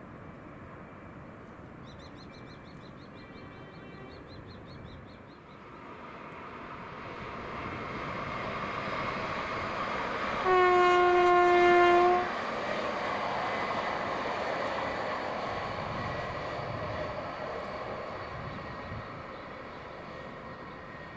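Koleje Śląskie passenger train approaching and passing, its running noise swelling and then fading, with one steady horn blast lasting about two seconds near the middle.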